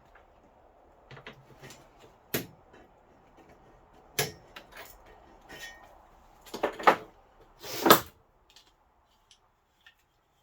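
Several sharp knocks and clatters, the loudest coming in a cluster about two-thirds of the way through, as a side-by-side's rear window panel and its mounting tabs are pushed and worked into a tight-fitting mount.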